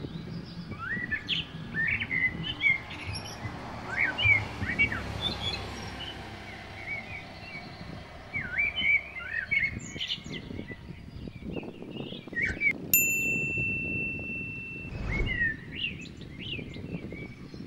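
Several small birds chirping and calling in short, varied, gliding phrases over a low background rumble. About two-thirds of the way in, a single clear tone rings out for about two seconds.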